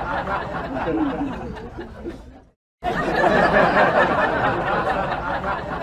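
Several people's voices chattering and laughing together. The sound cuts off abruptly for a moment partway through, then starts again.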